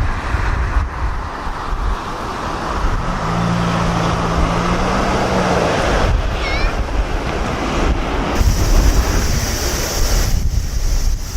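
Strong, gusty wind buffeting the microphone, with the broad noise of a Boeing 787's jet engines mixed in; a high hiss joins about eight seconds in.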